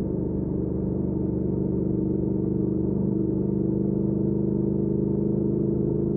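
2019 Triumph Speed Twin's 1200 cc parallel-twin engine running at steady cruising revs through a Weslake Shorty Pro exhaust, getting slightly louder and a touch higher over the first two seconds.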